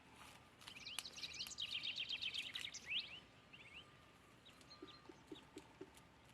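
A small songbird singing: a quick, dense run of high chirps starting about a second in and lasting about two seconds, then a few scattered notes. A few faint low taps near the end.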